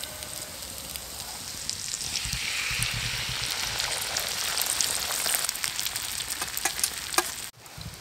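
Beaten egg sizzling in a hot steel frying pan with chopped tomato and onion over a wood fire. The frying hiss swells about two seconds in and stays loud, with sharp ticks of spitting fat toward the end.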